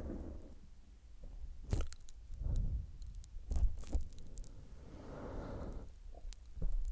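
Close-up wet mouth sounds on a microphone: licking with several sharp wet clicks and softer smacking in between.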